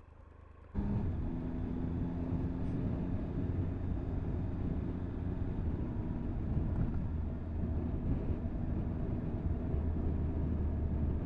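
Motorcycle engine running at a steady pitch while riding, with wind rush over the camera microphone, starting suddenly about a second in.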